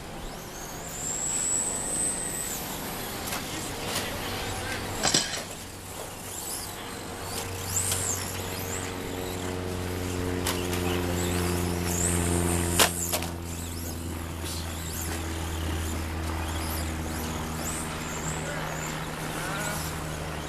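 Electric RC stadium trucks racing on a dirt track: high motor and gear whines rising and falling as they pass, with a few sharp knocks of trucks landing or colliding. A steady low drone joins about a third of the way in.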